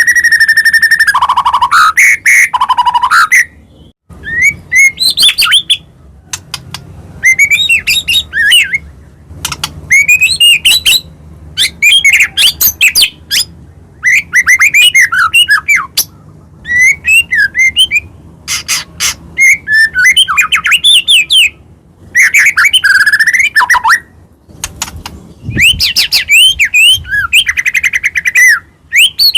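White-rumped shama (murai batu) singing loudly in a long string of varied phrases: rapid sliding whistles and chirps in bursts of a second or so, separated by brief pauses.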